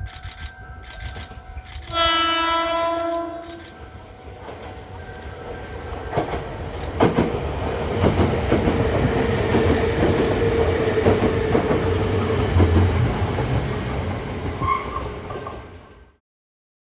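A Kintetsu 8000 series electric train sounds its horn once for about a second and a half. Then it runs past with a rising rumble of wheels and a clickety-clack over the rail joints, which cuts off suddenly near the end.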